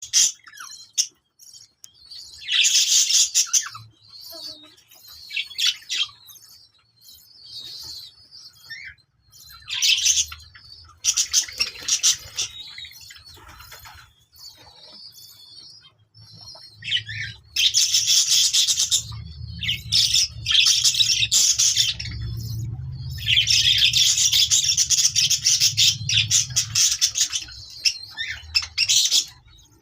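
Pet birds chirping and squawking in loud, raspy high-pitched bursts separated by quieter stretches, with a low hum underneath through much of the second half.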